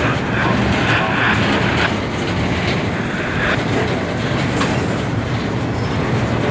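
Freight train cars rolling past, a steady rumble with the wheels clicking over the rail joints about once a second.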